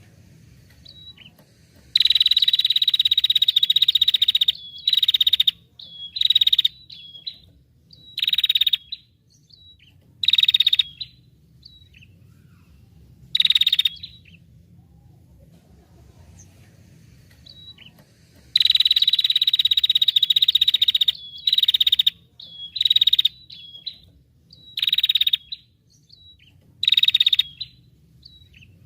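A songbird singing: a long, rapid, high trill lasting a couple of seconds, followed by a string of short trilled bursts about a second apart, the same phrase sequence starting again about two-thirds of the way through.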